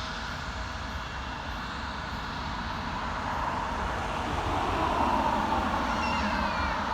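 Jet airliner engines: a steady rushing sound that grows a little louder about four seconds in.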